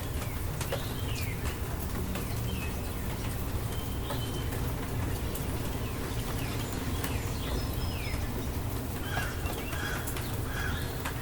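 Steady rain with birds chirping over it: short, falling chirps scattered throughout, and a few brief calls near the end.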